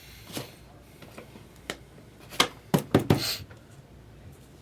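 Trading cards being handled: a few sharp taps and clicks as cards are knocked and set down on a table, bunched quickly together about two and a half seconds in, then a brief rustle.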